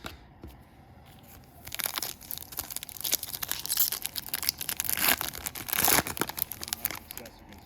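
Foil wrapper of a Topps Chrome baseball card pack being torn open and crinkled by hand, a dense crackling that starts a couple of seconds in and stops shortly before the end.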